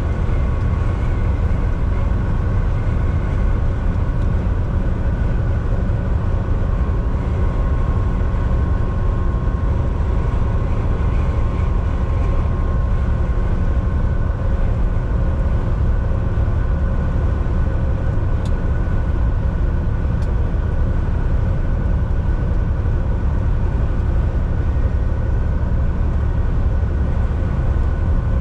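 Volvo VNL 760 semi truck's diesel engine and tyre and road noise, heard from inside the cab while cruising on the highway: a steady low rumble with a constant drone. Two faint clicks come through about two-thirds of the way in.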